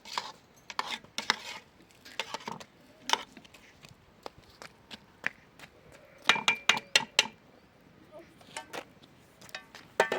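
Dishes and pots being handled, clinking and knocking in irregular strokes, with a quick cluster of ringing clinks about six to seven seconds in.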